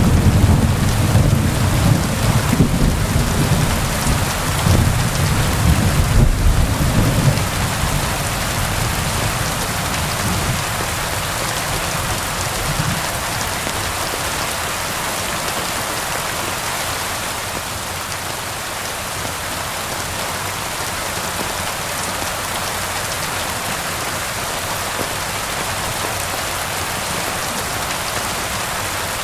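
Steady rain falling, with a low rumble of thunder in the first several seconds that fades out, leaving only the even hiss of the rain.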